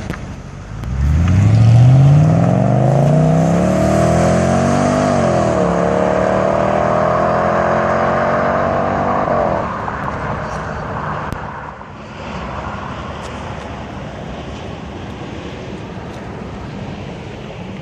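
Mercedes-AMG C43 accelerating hard past, its engine note climbing, dropping once on an upshift about five seconds in, then climbing again. Near the middle the engine note cuts off as the driver lifts, leaving fading tyre and wind noise as the car goes away.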